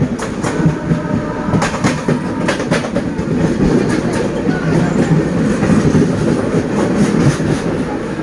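Kutch Superfast Express passenger train running through a station at speed: a continuous loud rumble of coaches, with sharp clacks of wheels over rail joints coming at irregular intervals.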